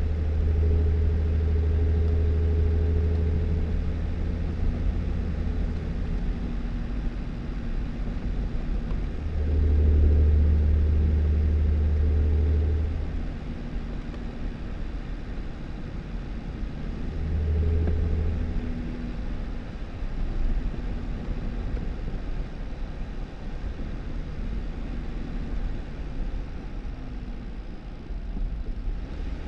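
Jeep Wrangler driving, its engine droning low and swelling louder three times (at the start, about ten seconds in, and around eighteen seconds in), over a steady rush of road noise.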